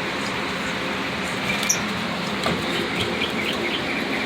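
Lovebirds chirping in short, quick, repeated calls, starting about a second and a half in, over the steady hiss of an air cooler running.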